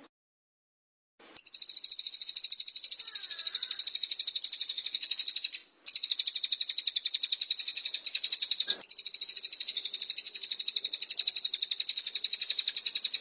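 Recorded songbird song used for bird-song tutoring: a loud, high-pitched, fast and even trill of repeated notes. It starts about a second in and breaks off briefly near the middle.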